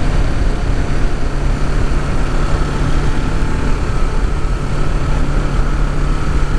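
Kawasaki Ninja 650's parallel-twin engine running at a steady cruise, its pitch holding even, under a constant rush of wind and road noise.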